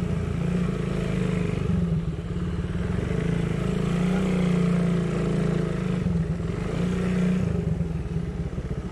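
Motorcycle engine running steadily under way, its pitch wavering slightly. Near the end it settles into a slower, even putter at low revs.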